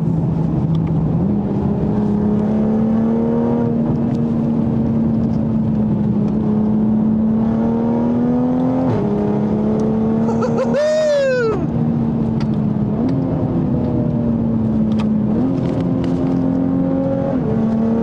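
Modified 2020 Toyota Supra's turbocharged straight-six running steadily while the car drives, heard from inside the cabin. The engine note jumps up or down in pitch in sudden steps a few times, with a quick sharp rise and fall in pitch a little past the middle.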